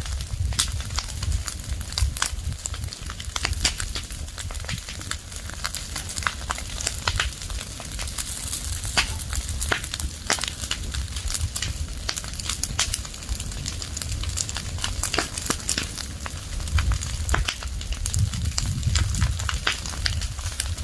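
Fire of burning leaves and branches crackling, with many irregular sharp pops and snaps over a low rumble.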